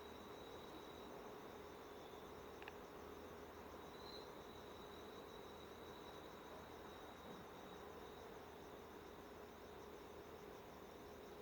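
Near silence: faint room tone with a steady high-pitched whine, and one brief faint click about two and a half seconds in.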